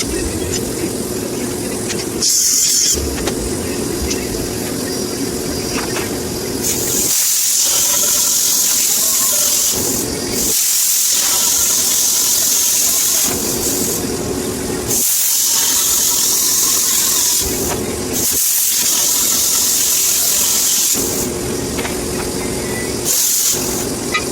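Repeated bursts of steady high hissing, each one to three seconds long with short pauses between them, from electric-arc metalwork on a steel stove grate. A steady low hum runs in the pauses.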